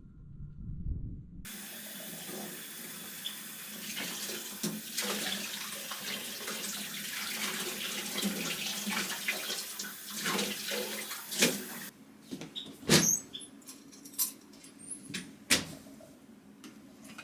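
Kitchen tap running into a sink, with light knocks of things handled under the water, then shut off abruptly after about ten seconds. A few sharp clicks and knocks follow.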